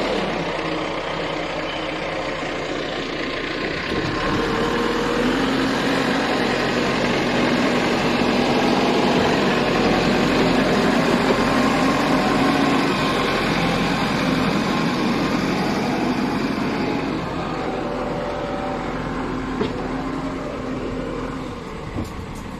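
Heavy diesel machinery engine running steadily. It grows louder about four seconds in and eases off over the last few seconds.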